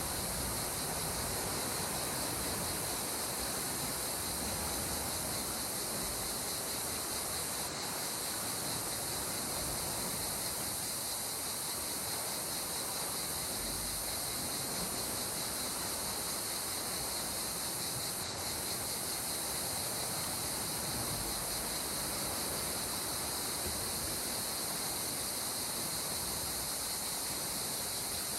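Calm sea water as a steady, even hiss, with no separate waves breaking, and a constant high band over it.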